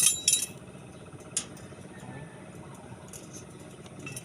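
Sharp clinks of steel reinforcing bar being handled: a quick cluster at the start and a single clink about a second and a half in, over a steady low hum.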